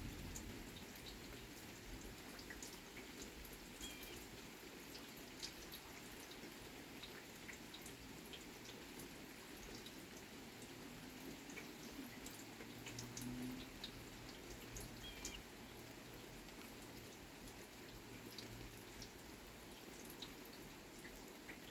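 Faint rain dripping: scattered drops ticking over a soft hiss of rainfall. A bird chirps briefly twice, and a faint low rumble of distant thunder swells in the middle.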